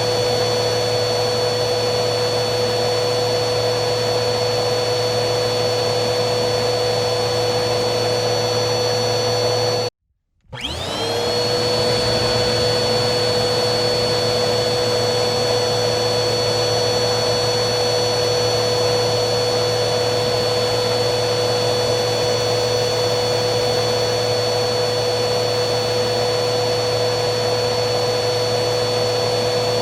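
Vacuum cleaner motor running with a steady roar and whine. About ten seconds in it cuts out for half a second, then spins back up, its whine rising to full pitch within about a second, and runs on steadily.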